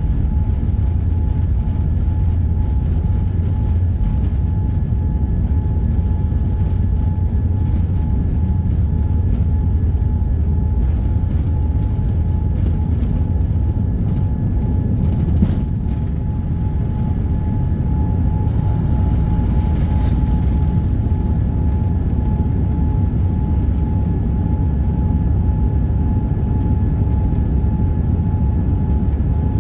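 Boeing 787-9 airliner heard from inside the cabin: a steady low rumble of engine and airflow noise with a thin steady whine over it. A single short click about halfway through.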